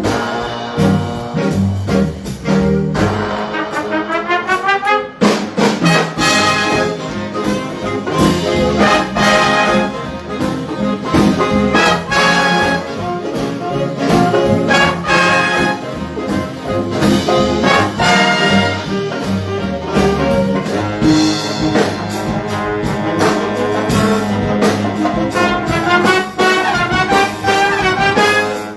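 High school jazz big band playing, its trumpet and trombone section carrying the tune. About three seconds in, the horns sweep upward in pitch, break off briefly, then the full band comes back in.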